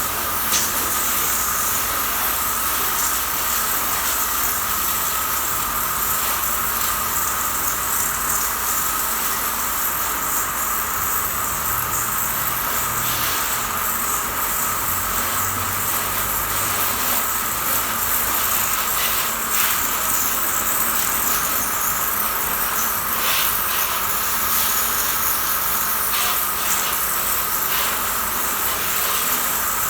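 High-pressure washer spraying water on a motorcycle: a steady hiss with a continuous high whine.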